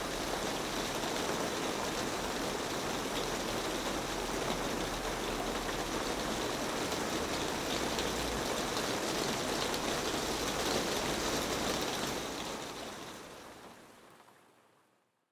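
Rain falling on a rusted metal roof: a steady, dense patter of drops that fades out over the last three seconds.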